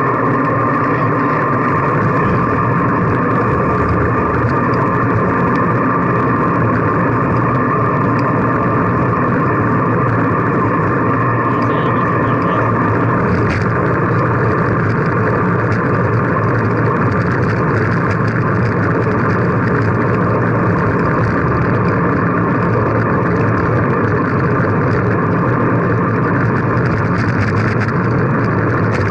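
Steady rushing wind and road noise heard while riding a bicycle, unbroken and even throughout.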